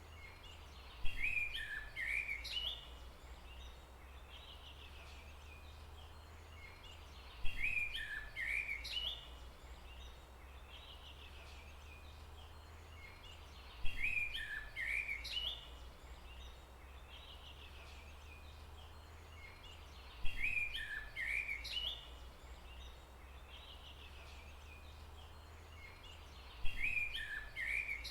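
A songbird's short phrase of quick, sharp chirps, repeated five times at even intervals of about six seconds, the same phrase each time. A steady low hum runs underneath.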